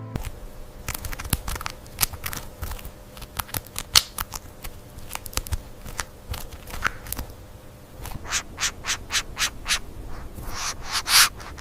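Irregular scratching and tapping clicks, turning into a quicker run of scraping strokes, about four a second, in the last few seconds.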